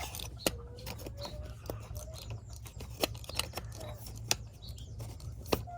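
Scattered light clicks and taps of small PCP air-rifle parts being handled and fitted together, over a steady low hum.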